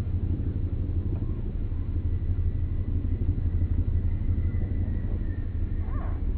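Steady low rumble throughout, with faint short bird calls near the end.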